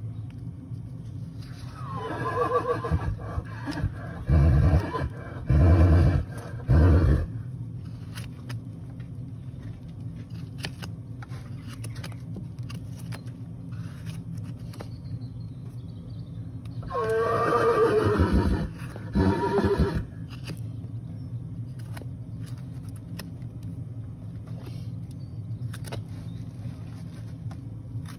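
A horse whinnying twice: each call starts with a long wavering cry that falls in pitch and breaks into short loud pulses, the first about two seconds in and the second about two thirds of the way through. A steady low hum runs underneath.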